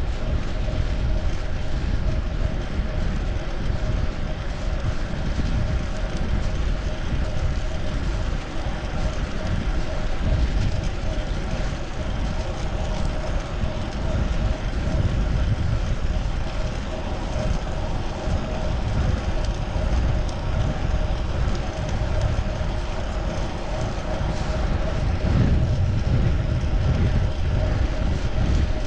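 Steady, deep rush of wind on a chest-mounted action camera while cycling, mixed with road and traffic noise, with a faint steady hum running through it.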